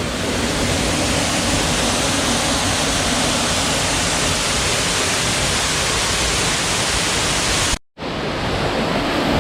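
Steady rush of falling water from a waterfall, broken by a split-second gap of silence near the end, after which it sounds slightly duller.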